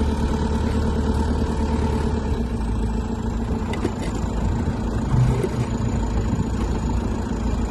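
A vehicle engine running steadily, a low rumble with a faint steady hum over it.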